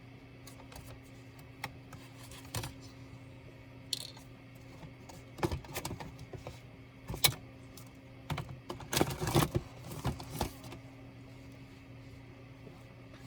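Small clicks, taps and rattles of a laptop and small tools being handled while it is taken apart. They come singly and in short flurries, busiest in the middle, over a faint steady hum.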